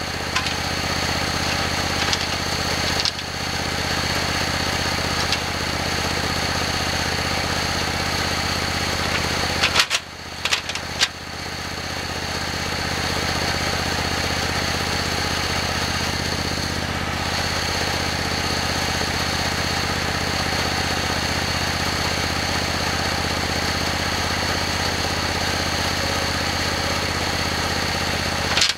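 Simplicity Legacy garden tractor engine running steadily, with a few sharp knocks about ten seconds in.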